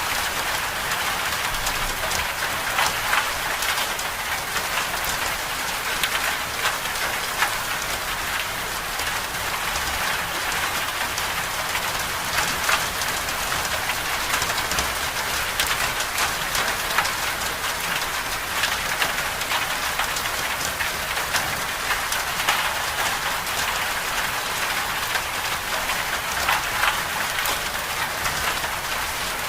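Steady storm precipitation striking a surface: a constant hiss dense with small, irregular ticks of drops.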